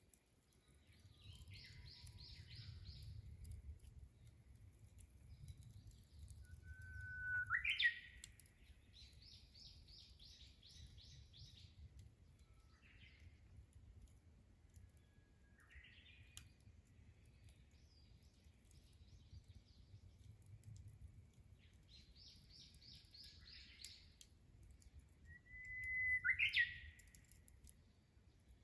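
Japanese bush warbler singing its "hō-hokekyo" song twice, a held whistle that breaks into a quick rising flourish, the two songs about 18 seconds apart. Other birds trill briefly in between over a faint low rumble.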